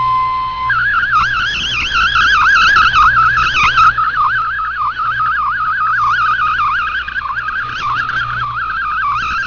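A digital data-mode transmission (MFSK-type) heard through a shortwave receiver: a single steady tone for under a second, then a fast, continuous warble of hopping tones, over a low hum.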